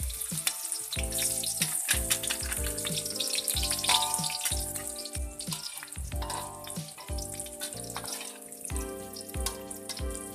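Food sizzling and crackling in hot oil in a pan, a dense, steady frying hiss with many small pops, under background music with a regular beat.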